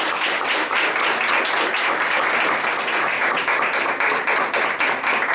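An audience applauding steadily, a dense patter of many hands clapping, for a student called up to receive a certificate.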